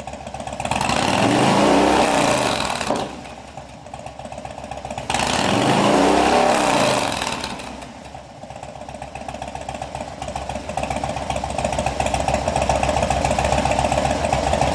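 Harley-Davidson FXDL Low Rider's V-twin engine through a Bassani aftermarket exhaust, blipped twice, each rev climbing and falling back to idle. It then idles with an even beat that gets a little louder near the end.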